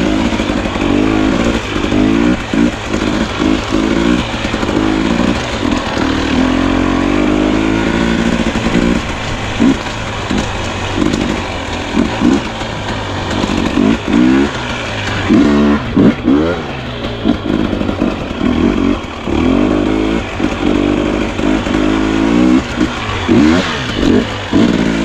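Two-stroke enduro dirt bike engine worked in short throttle bursts at low speed, its pitch repeatedly rising and falling with frequent brief drops off the throttle.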